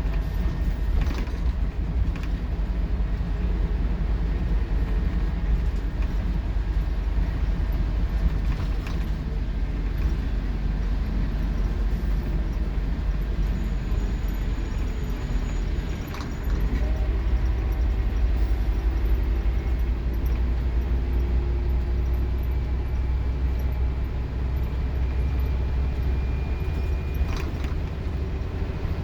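Scania K230UB Omnilink bus engine heard from inside the saloon, running hard under load with a steady low rumble. A little past halfway the sound drops briefly, as at a gear change, then the engine pulls again with a slowly rising pitch. Light rattles and creaks from the bus body come through now and then.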